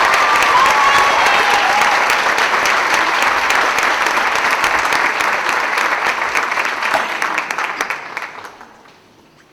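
Audience applauding at the end of an a cappella song, the clapping dying away about eight to nine seconds in.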